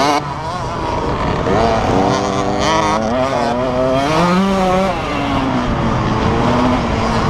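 Several motocross motorcycles on the track, their engines revving up and down at different pitches and overlapping.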